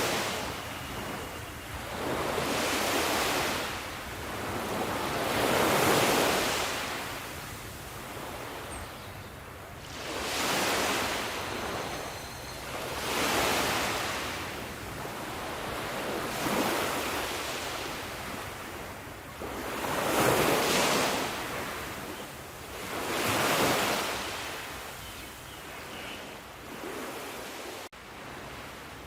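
Ocean waves breaking and washing on the shore, a surge of surf every three seconds or so. A brief dropout near the end.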